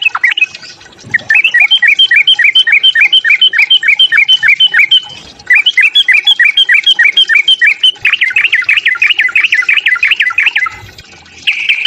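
Yellow-vented bulbul (trucukan) giving its fast, agitated fighting call: three long runs of quick, loud chattering notes, about four a second, with short breaks between them. The last run, starting about eight seconds in, is faster.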